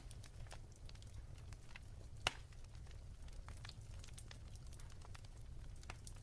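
Wood fire in a fireplace crackling softly: scattered small pops and snaps over a low rumble, with one sharper pop a little over two seconds in.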